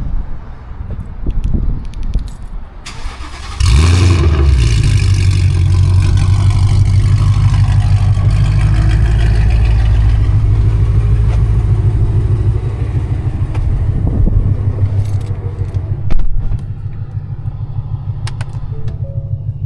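2019 Ford Mustang GT's 5.0 L V8 with catless headers and straight-piped exhaust, started after a few seconds of light clicks and rattles: it fires with a loud flare and settles into a steady, loud idle. A short loud burst comes about sixteen seconds in, after which the idle continues a little quieter.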